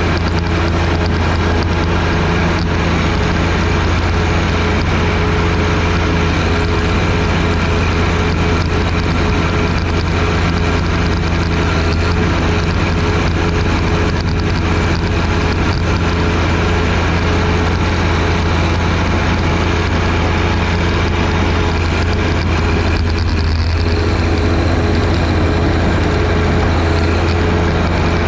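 John Deere 1025R sub-compact tractor's three-cylinder diesel engine running steadily, with a deep, even hum while it drives the front snowblower.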